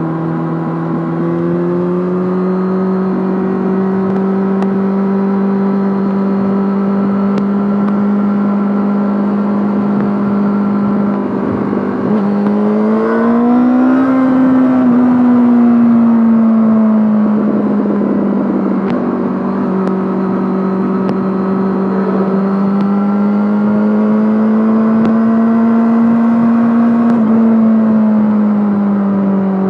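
Yamaha Fazer 600 inline-four motorcycle engine running through a handmade exhaust while riding, mostly a steady note. Its pitch rises under throttle about twelve seconds in and falls back as the rider eases off, then climbs slowly again and drops near the end.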